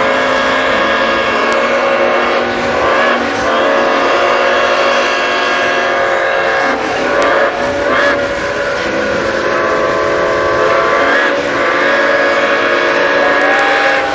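A chorus of several steam locomotive whistles blowing together in long, overlapping blasts, with fresh whistles joining in every few seconds.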